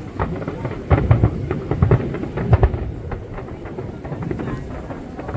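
Aerial fireworks shells bursting overhead: a run of deep booms, about four of them close together in the first three seconds, over a steady murmur of crowd noise.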